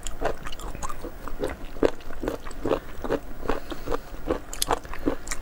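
Close-up chewing and biting of raw abalone, a run of short crunchy bites about two to three a second; the raw abalone is firm and crunchy.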